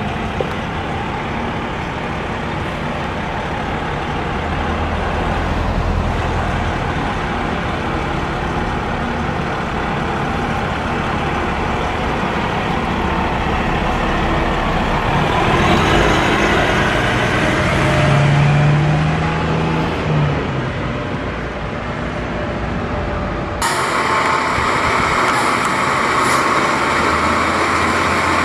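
Fire truck's diesel engine running along the road with traffic noise. A low droning tone rises briefly about two-thirds of the way through. The sound changes abruptly near the end to a brighter, hissier vehicle sound.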